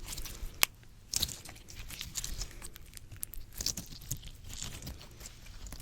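Slime being squished and pressed directly against a microphone: irregular wet, sticky clicks and crackles, with one sharp pop about half a second in.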